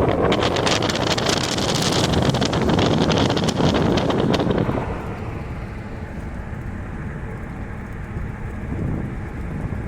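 Wind buffeting and crackling on the microphone of a moving car for the first half. About halfway through it drops away, leaving the steadier, lower road noise of the car driving.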